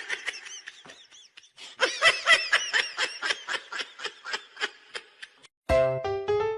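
Rapid, rhythmic high-pitched laughter, about four short bursts a second, dying away after about five seconds. Keyboard music starts near the end.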